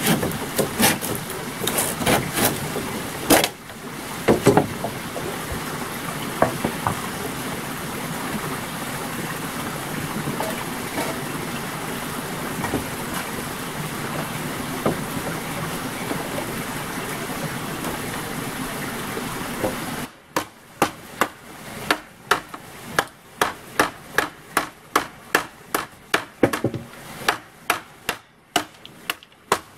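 Rapid hand-sawing strokes on wood for the first few seconds, then a steady rushing noise. About two-thirds of the way in it cuts to a chopping tool striking wood in even blows, about two a second.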